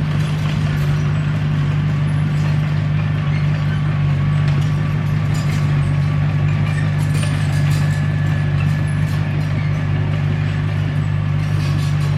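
Komatsu D21P crawler bulldozer's diesel engine running steadily with an even, unchanging hum, with faint scattered ticks above it.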